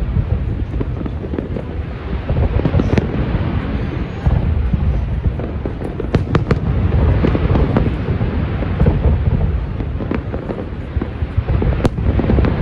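Aerial fireworks display going off: a continuous deep booming of shell bursts with sharp crackling reports on top, a quick cluster of cracks about halfway through and one sharp crack near the end.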